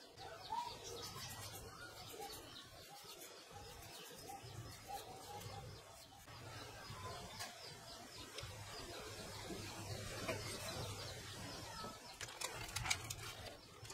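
Birds chirping and cooing in the background over a low steady hum, with a few sharp clicks near the end.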